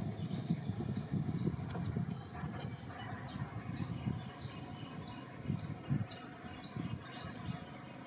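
A small animal chirping: a steady series of short, high-pitched falling chirps, about two a second, over low rustling and handling noise.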